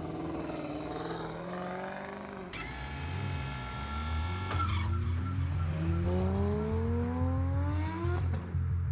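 A car engine accelerating, its pitch rising steadily for about three seconds before breaking off near the end, over a low engine rumble. Partway through comes a steady held tone lasting about two seconds.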